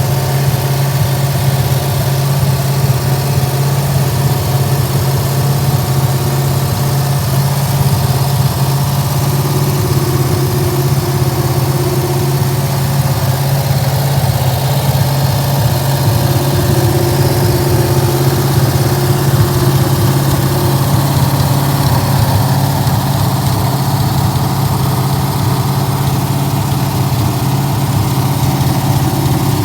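Rebuilt Ford 289 small-block V8 running steadily at a fast idle, set to about 2500 rpm for camshaft break-in after its first start.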